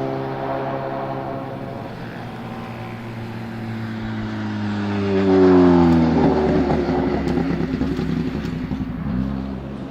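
Turbocharged BMW S14B20 inline-four engine of a BMW E36 time-attack car, approaching and passing close by about five seconds in. Its note drops in pitch as it goes past, then fades.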